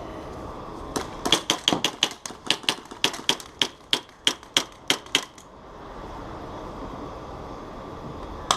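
Airsoft guns firing a quick run of sharp single shots, about four a second, which stops about five seconds in.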